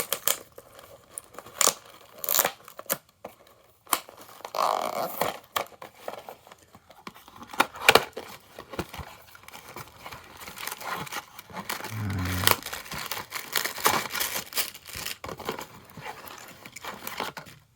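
Packaging being torn and crinkled open by hand: rustling plastic and cardboard, with many sharp clicks and crackles and louder spells of tearing.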